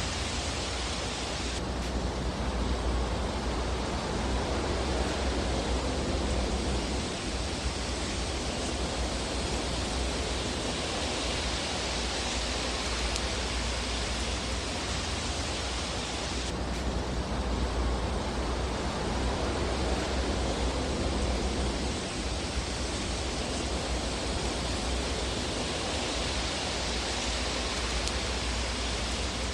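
Steady rushing hiss of a fireplace fire sound track, swelling and easing about every fifteen seconds, with hardly any distinct crackles.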